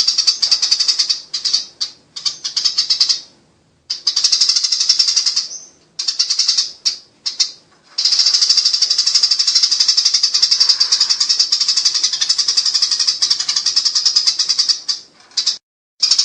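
Eurasian tree sparrows giving a fast, harsh chattering call, the agitated 'fighting' chatter. It comes in several short bursts with brief gaps, then one long unbroken run of about seven seconds that stops shortly before the end.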